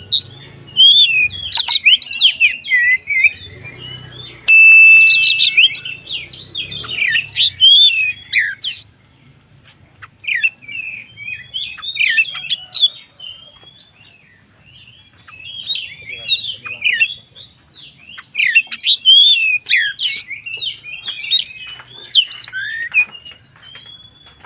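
Oriental magpie-robin (kacer) singing vigorously: bursts of rapid, varied whistles and chattering phrases, with one long held whistle about five seconds in. The song drops away for a few seconds midway, then returns dense and loud.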